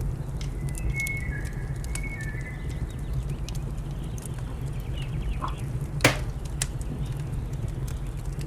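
Wood fire crackling with frequent small pops over a steady low rumble, and one sharp, louder pop about six seconds in. A bird gives a few thin whistled notes in the first couple of seconds.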